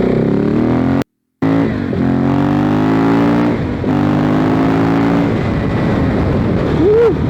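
KTM 690 Enduro R's single-cylinder engine with an FMF slip-on exhaust, accelerating hard through the gears: the pitch climbs, drops at a shift about three and a half seconds in, climbs again, and drops at another shift a little after five seconds. The sound cuts out completely for a moment about a second in.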